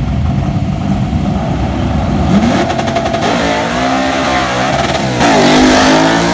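Drag-race car engines revving hard under acceleration. The pitch climbs, drops at a gear change about five seconds in, then climbs again louder.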